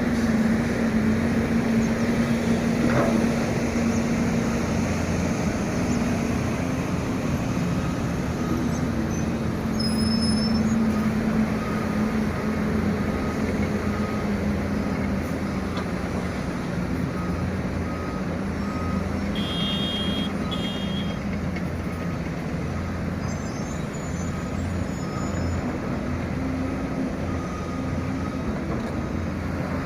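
Heavy diesel machinery engine running steadily under load, with a faint reversing alarm beeping about once a second from about a third of the way in until near the end.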